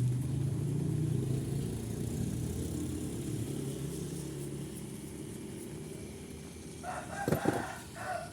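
A low, steady rumble fades away over the first few seconds. Near the end a rooster crows once, briefly.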